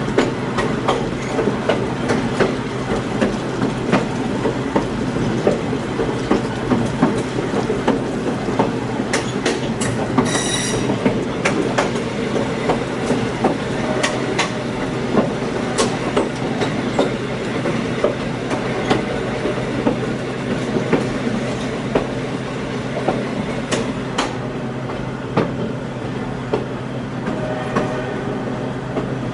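Passenger railcar riding along the track: a steady rumble and hum with clicks of the wheels over the rail, and a brief high-pitched wheel squeal about ten seconds in.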